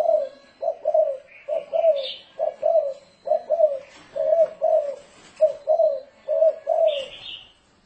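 Spotted dove cooing in a fast, rolling series of paired low coos, the 'thổ rền' call used to lure wild doves, stopping just before the end. A small bird chirps faintly twice.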